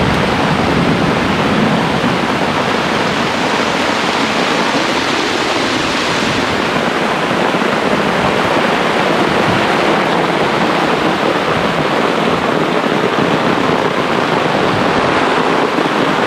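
Heavy wind-driven rain in a thunderstorm: a loud, steady rush of rain and wind.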